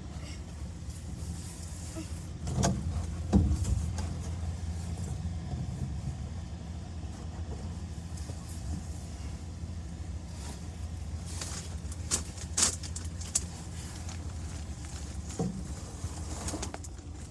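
A steady low machine hum, with a few sharp knocks and bumps as someone climbs into a cramped enclosure, the loudest about three seconds in.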